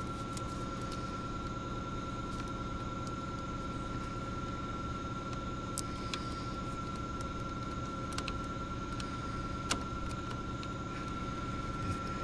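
Steady background hum with a thin high tone, broken by a few light clicks and taps of hands working plastic clips and coolant hose fittings loose.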